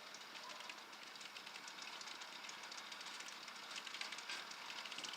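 A steady, dense crackle of many tiny ticks, as sleet and ice pellets strike frozen surfaces in an ice storm.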